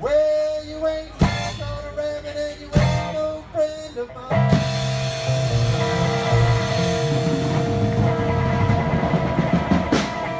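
Live rock-and-roll band with electric guitars, bass, drum kit and harmonica playing an ending. A few sharp stop-time hits with held notes come first. From about four seconds in, the band holds a long final chord over a drum roll and cymbal wash, which cuts off near the end.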